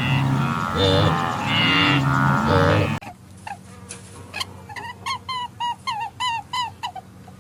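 Cattle mooing, several loud, drawn-out calls, then an abrupt switch about three seconds in to a bird's rapid repeated chirping, roughly three short chirps a second.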